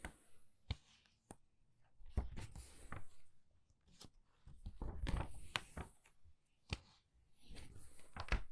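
Book pages turned quickly by hand, about three turns, each a papery swish with crisp snaps of the sheet, and single light paper ticks between them.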